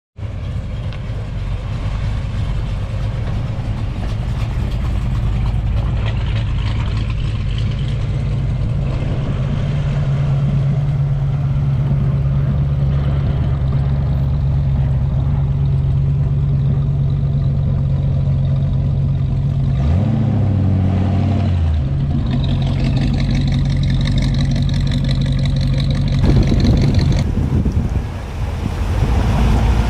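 Car engine running steadily with a low hum, shifting briefly in pitch about two-thirds through.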